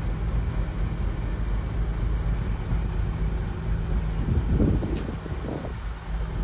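Heavy diesel earthmoving machine running steadily with a deep, even engine hum. It swells briefly into louder rattling twice past the middle, with a sharp click among them.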